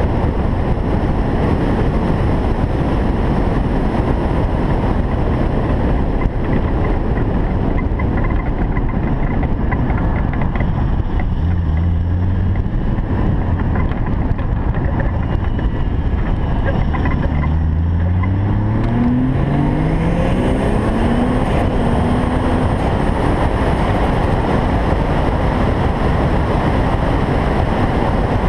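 Single-turbo Toyota Supra on the move, mostly a steady loud rush of wind and road noise. Near the two-thirds mark the engine note rises as it accelerates.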